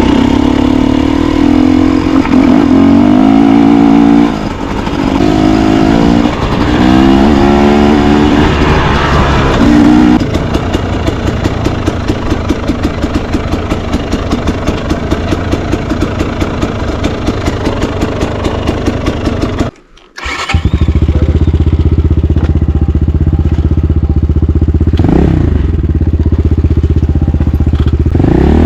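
Enduro motorcycle engine being ridden, its pitch rising and falling with the throttle for the first ten seconds or so, then running at a steady, evenly pulsing pace. The sound drops out briefly about twenty seconds in, then the engine carries on running steadily.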